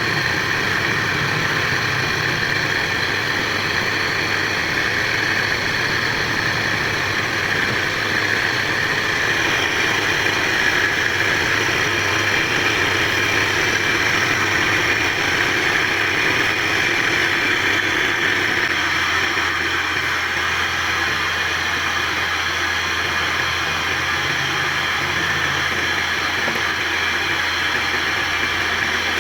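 A machine running steadily: a continuous mechanical hum and hiss with no separate strikes, its low hum changing about two-thirds of the way through.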